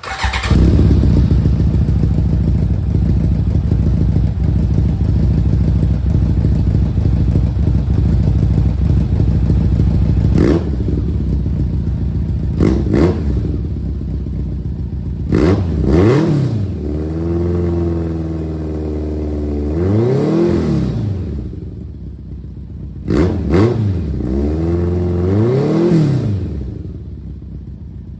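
1991 BMW K1's four-cylinder engine running through an aftermarket exhaust: it idles steadily for about ten seconds, then is given a few short throttle blips and several longer revs that climb and fall back to idle.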